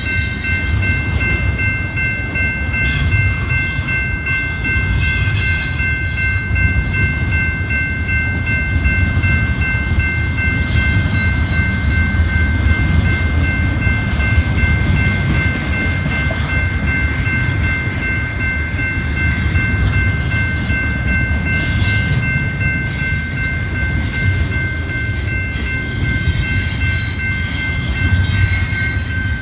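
A train rolling past close by: a steady heavy rumble with irregular clattering and hissing from the wheels and cars. A thin high whine of several steady tones holds throughout.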